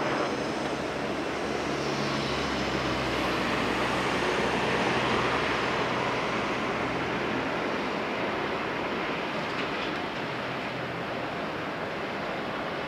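Electric train approaching on the track: a steady running noise with a low motor hum, swelling a little midway and then easing.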